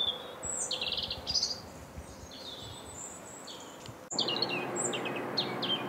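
Several birds chirping and calling in short rapid trills. About four seconds in, a steady low hum sets in beneath them.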